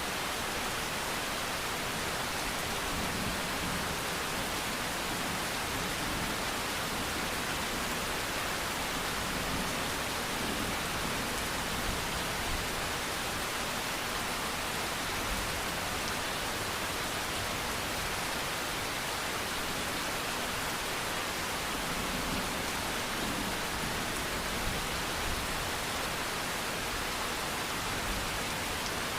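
Steady rain falling, an even hiss with no change in intensity.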